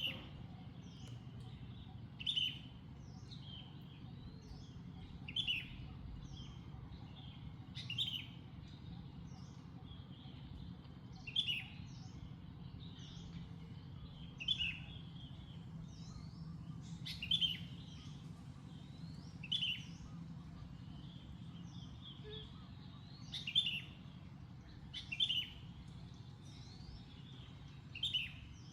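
A bird chirping: about ten short, high calls spaced every two to three seconds, over a steady low background hum.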